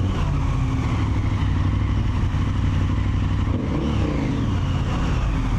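Motorcycle engine running steadily as the bike rides along, with a brief change in engine pitch a little under four seconds in.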